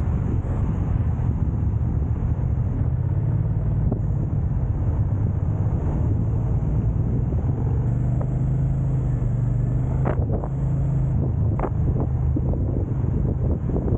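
Car in motion: steady low rumble of engine and tyre noise with some wind buffeting. Two short clicks come about two-thirds of the way through.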